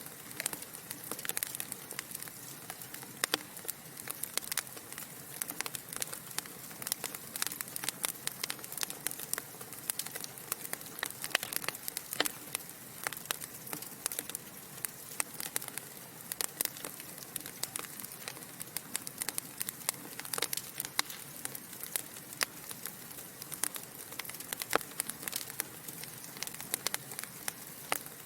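Wood fire in a fireplace crackling: irregular sharp pops and snaps, several a second, over a steady soft hiss of burning logs.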